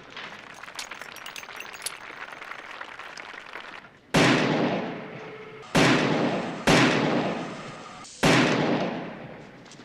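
Four loud gunshots in a film soundtrack, the first about four seconds in, each ringing out and fading over about a second. Before them there is a steady noisy hiss with small clicks.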